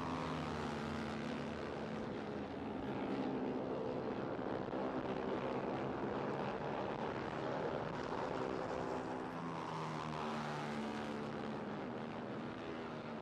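TVS RR310 race-spec motorcycles running at high revs on track, their single-cylinder engines rising and falling in pitch as the bikes pass and change speed.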